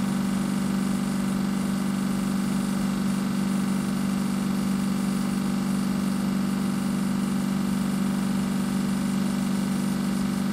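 A train standing in the station with its engine or traction equipment running, giving a steady, unchanging low hum.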